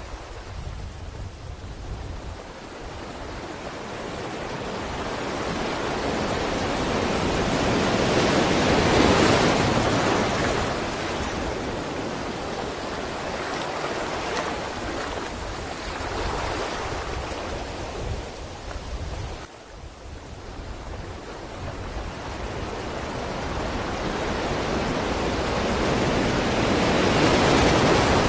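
Ocean waves breaking and washing on a shore, swelling slowly to a peak about nine seconds in and again near the end, with a brief lull just before twenty seconds.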